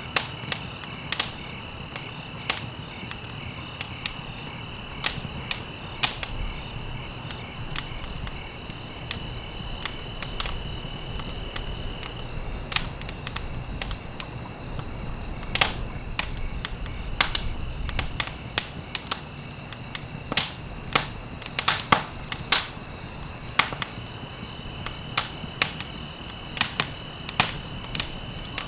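Wood fire crackling, with irregular sharp snaps and pops over a low rumble of the flames. A steady high trill of crickets runs behind it and drops out for a while midway.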